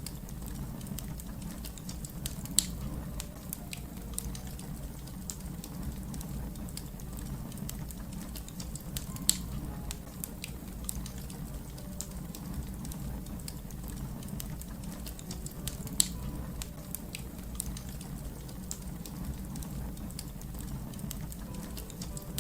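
Wood fire crackling: a steady low rumble with irregular small snaps, and three louder pops roughly six to seven seconds apart.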